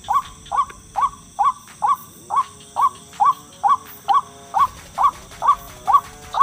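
White-breasted waterhen (ruak-ruak) calling over and over, a short rising note repeated at an even pace of about two a second.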